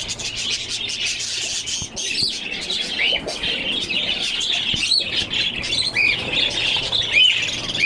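A dense chorus of many caged small parrots, budgerigars among them, chirping and chattering without a break, with sharper squawking calls standing out every second or so.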